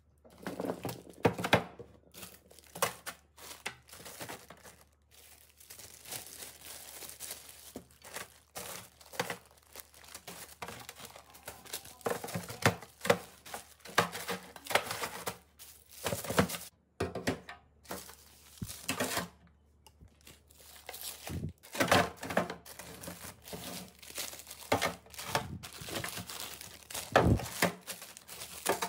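Packaging crinkling and rustling in irregular bursts, with occasional sharp knocks.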